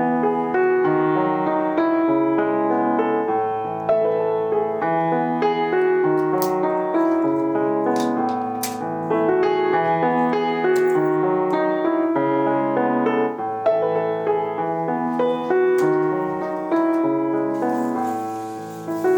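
Soft background piano music, a gentle flowing melody over steady chords. A few faint clicks sound briefly beneath it near the middle.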